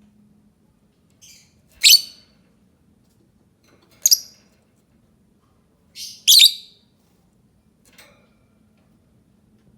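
Lovebird giving short, shrill calls. There are single calls about two and four seconds in, then a quick pair around six seconds, the second of which is the loudest. A faint call follows near eight seconds.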